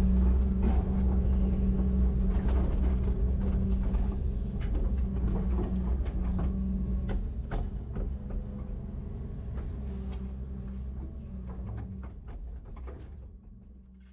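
Heavy diesel machinery running steadily, with scattered clanks and creaks of metal parts, gradually fading out toward the end.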